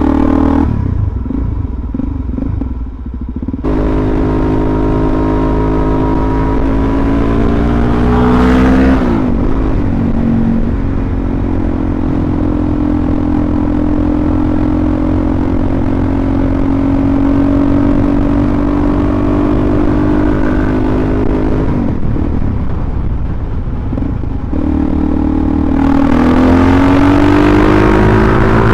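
Suzuki DR-Z400SM's single-cylinder four-stroke engine riding through the gears. The revs climb a few seconds in, then hold steady through a long cruising stretch. They drop back for a couple of seconds and climb again near the end.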